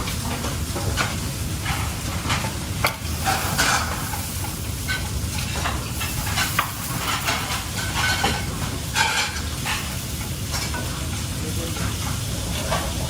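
Food sizzling as it fries in a pan, with a cooking utensil now and then scraping and tapping against the pan in irregular clicks.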